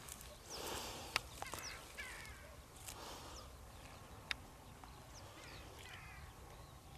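Birds calling in the distance with repeated short, harsh calls that fall in pitch, and two sharp clicks, about one and four seconds in.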